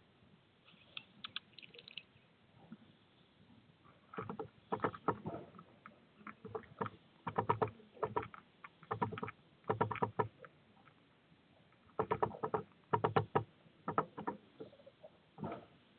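A bird tapping and scratching on the feeder right beside the microphone: quick clusters of clicks that begin a few seconds in and recur every second or so.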